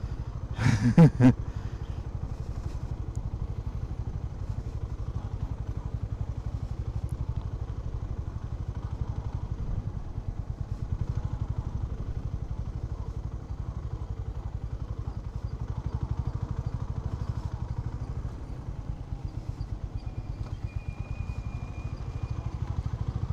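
Honda H'ness CB350's single-cylinder engine running at low, steady revs with a rapid even beat of exhaust pulses, the motorcycle moving slowly over a rough unpaved track.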